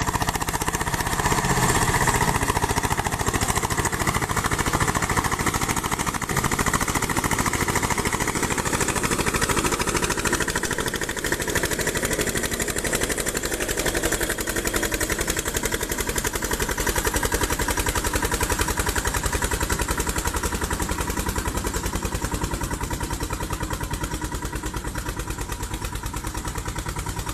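Eicher 242 tractor's two-cylinder air-cooled diesel engine running steadily, hauling a fully loaded sugarcane trolley. The sound eases off slowly over the second half.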